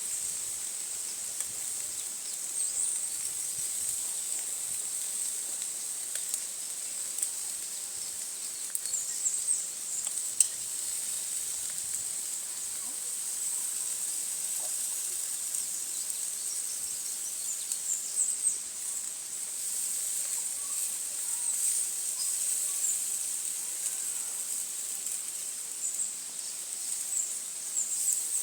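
Insects trilling in a steady high-pitched drone, with a few faint chirps and small clicks over it.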